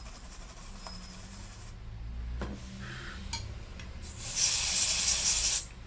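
Rubbing hiss of cleaning work on a laptop keyboard, with a louder rushing hiss lasting about a second and a half near the end.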